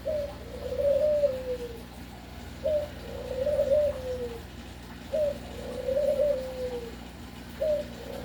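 Dove cooing: a short note followed by a longer wavering coo that falls in pitch, repeated steadily about every two and a half seconds.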